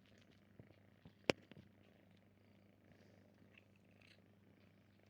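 A cat purring faintly and steadily, with scattered small clicks and one sharp click about a second in.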